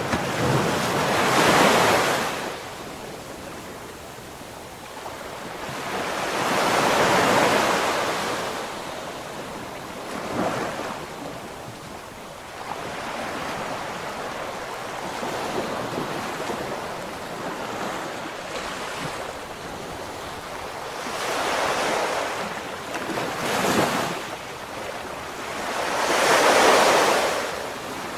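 Ocean waves breaking and washing up the shore, swelling and fading every few seconds; the biggest surges come about a second in, around seven seconds, and near the end.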